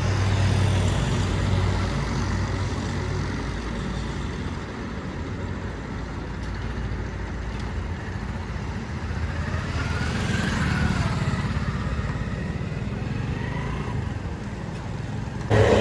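Road traffic: motor vehicle engines running with a steady low hum, growing louder about ten seconds in.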